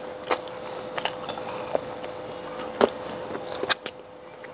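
Someone chewing a mouthful of beef shawarma: scattered wet smacks and mouth clicks, a handful of sharper ones, over a faint steady hum.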